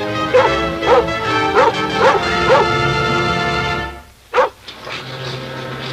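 Film score music under a dog barking over and over, about two short barks a second. The music cuts off about four seconds in, a single bark follows, then a low steady hum.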